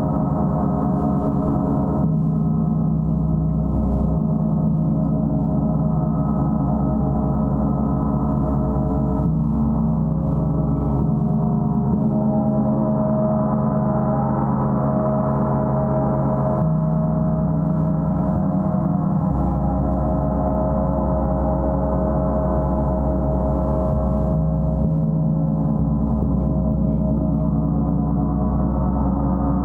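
Gong played in a continuous wash: a dense, sustained mass of overlapping low ringing tones whose lower pitches shift every few seconds, with no pauses between strokes.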